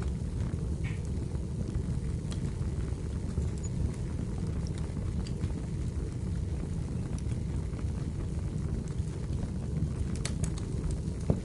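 Wood fire burning in a fireplace: a steady low rumble with scattered small crackles, and a couple of sharper pops near the end.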